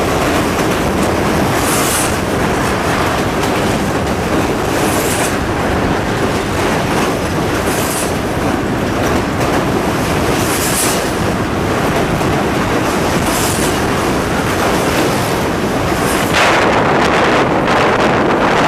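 Train running steadily on the rails: a continuous rumble of wheels on track, with a bright hiss recurring about every three seconds. Near the end the noise turns louder and rougher.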